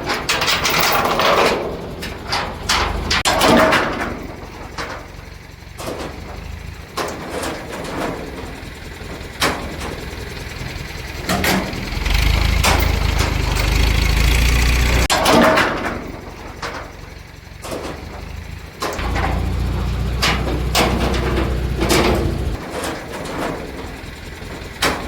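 Heavy diesel engine running, swelling to a louder low rumble twice, about halfway through and again near the end, amid repeated metallic clanks and knocks.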